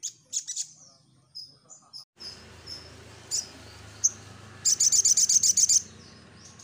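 Crimson sunbird (sogon) singing in short, sharp, high chirps, with a fast trill of about ten notes about two-thirds of the way through.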